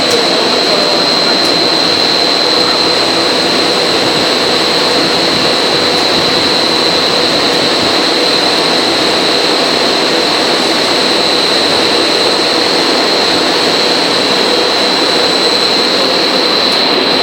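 Plastic corrugated pipe extrusion line running: a steady, loud machine noise with a constant high whine.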